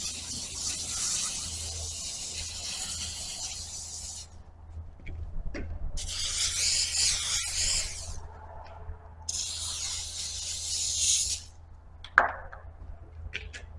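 Aerosol can of gel lubricant spraying in three hissing bursts, a long one and then two shorter ones, to lubricate a hydraulic cylinder part for a seal change. A sharp click comes near the end.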